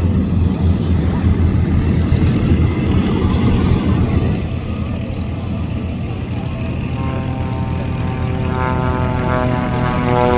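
Propeller aircraft engines: a steady low rumble from the taxiing P-38 Lightning's twin V-12 piston engines. From about seven seconds in, an aerobatic plane's engine rises steadily in pitch as it climbs.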